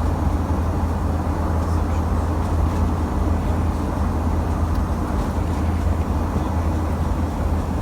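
Steady cabin noise of a Boeing 737-900ER in its climb: CFM56-7B engines at climb power and rushing air, a constant low hum under an even roar.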